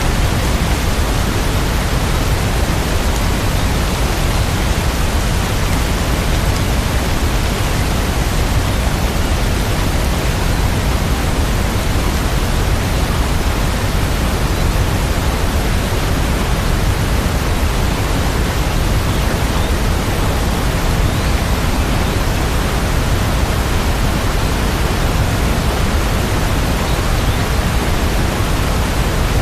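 Steady rain, a dense, even hiss with no breaks.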